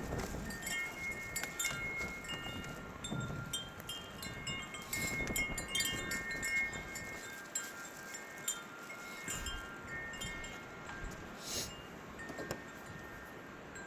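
Wind chimes tinkling in gusty wind: many short, overlapping ringing notes at irregular times, over a low rush of wind.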